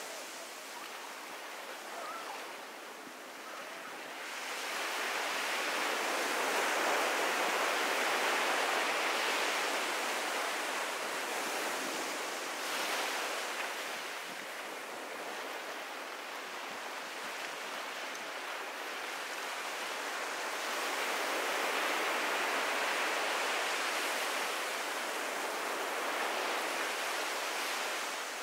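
Ocean surf washing onto a beach, a steady rushing that swells louder twice as sets of waves come in, between about 4 and 12 seconds in and again about two-thirds of the way through.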